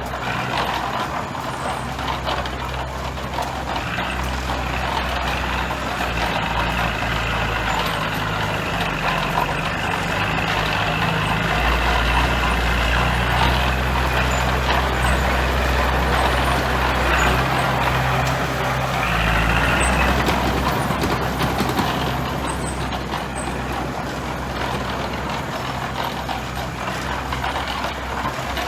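Heavy diesel construction machinery running steadily under load, its engine note swelling somewhat through the middle, with a high whine laid over it for a few seconds around the middle.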